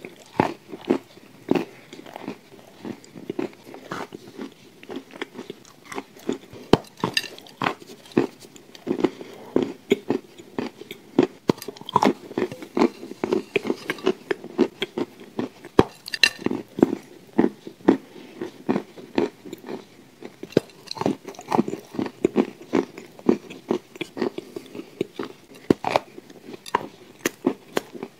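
Someone chewing and biting soft, crumbly lumps: many small, soft crunches and mouth clicks in quick succession.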